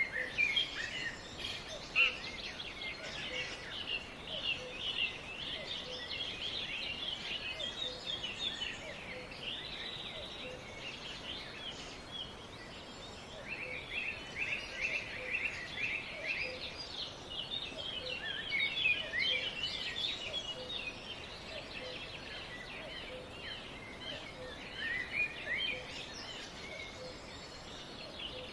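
A chorus of many small birds chirping and twittering at once, short rapid overlapping chirps over a steady background hiss. Under it, a faint low note repeats at an even pace.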